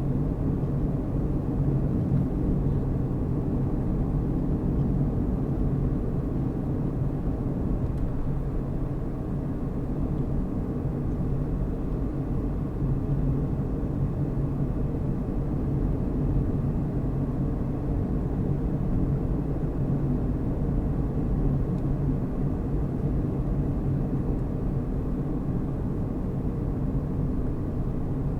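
Steady low drone of a car being driven: engine and tyre noise on the road, with a constant hum underneath and no changes in pace.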